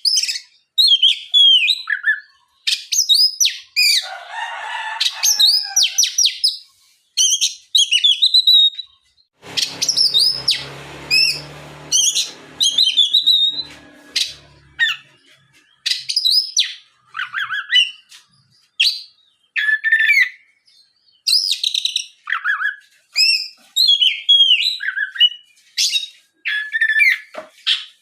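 Oriental magpie-robin (kacer) singing loudly and continuously in rapid, varied whistled phrases with short pauses between them, the song of a bird in full voice. A faint low hum sits under the song for a few seconds about a third of the way in.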